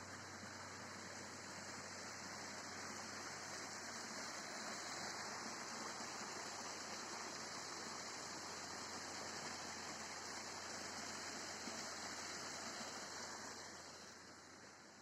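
Rushing water from a waterfall or stream, a steady hiss that fades somewhat near the end.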